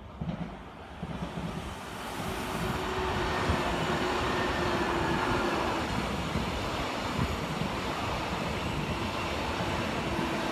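SBB RABDe 500 ICN tilting electric multiple unit, two coupled sets, passing by. The rumble of wheels on rail builds over the first few seconds, then holds as a steady loud rush with a faint steady hum.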